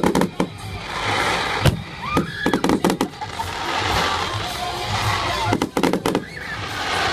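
Fireworks going off: sharp bangs in quick clusters at the start, around two and a half to three seconds in, and again around six seconds in, over a continuous crackle.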